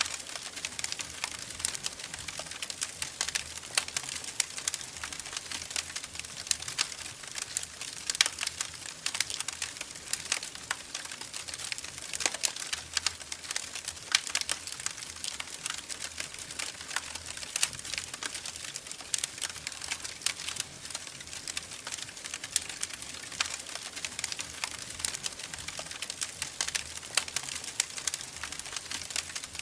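Wood fire crackling in a fireplace: a steady stream of many small irregular pops and snaps over a soft hiss.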